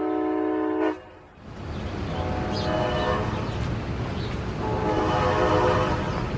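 Amtrak locomotive air horn sounding a steady chord that cuts off sharply about a second in, followed by the train's rumbling run along the track, with the horn sounding again twice, more faintly.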